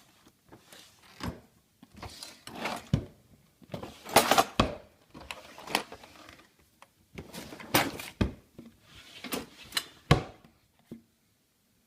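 Kitchen utensils clattering and knocking as a drawer is rummaged through, in irregular bursts with a few louder clunks.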